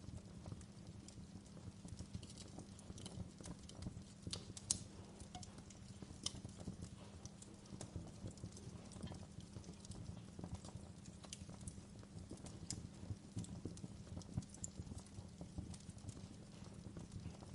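Wood fire burning in a fireplace: a low steady rumble of the flames with scattered crackles and snaps, one louder pop about five seconds in.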